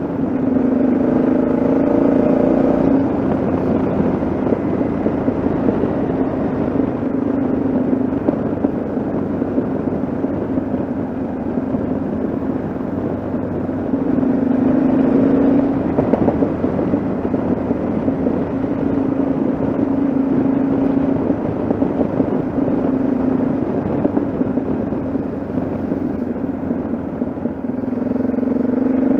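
Yamaha XT660Z Ténéré's single-cylinder four-stroke engine running on the road, its note swelling and easing a little with the throttle a few times, over steady wind and road rush.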